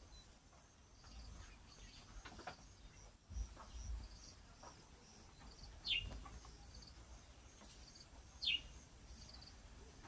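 Birds chirping faintly: a short high chirp repeats throughout, and a sharp falling call sounds twice, about six and eight and a half seconds in.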